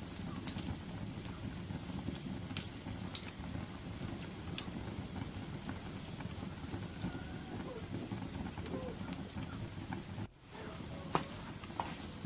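Wood fire burning with a steady low rumble and sharp crackles and pops every second or two. The sound drops out for a moment about ten seconds in.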